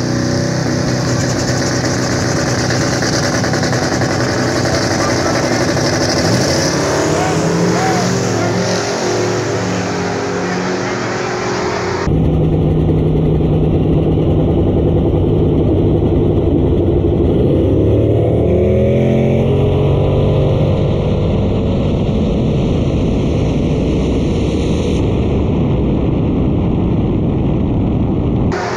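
Street-legal drag cars' engines running loud at the starting line, revving and launching with a rising engine note about a third of the way in. The sound cuts abruptly to another loud engine run, which revs up again in the second half.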